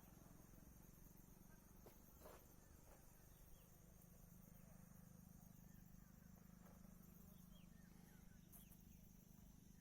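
Near silence: faint outdoor ambience with a low steady hum and scattered short, faint chirps.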